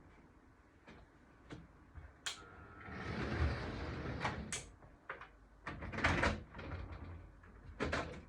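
Handling noises as Hornby model train stock is moved about: sharp plastic clicks and knocks, with a longer sliding scrape a few seconds in and another cluster of knocks near the end.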